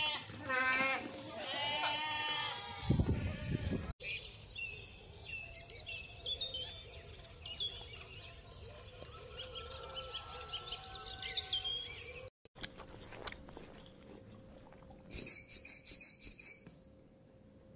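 A goat bleating, a few wavering calls. Then a busy chatter of short, high bird chirps, and near the end a brief high whistled bird note.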